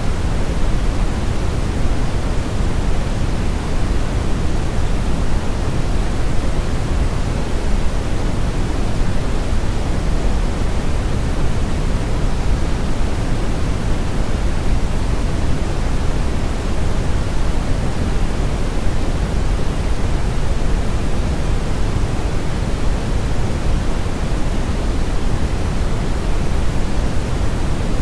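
Steady brown noise: an unchanging deep rushing hiss, strongest in the bass and falling off toward the high end.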